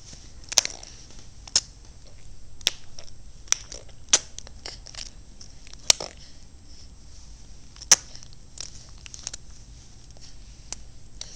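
A baby clicking and smacking his tongue and mouth: sharp clicks, irregularly spaced about a second apart, some louder than others.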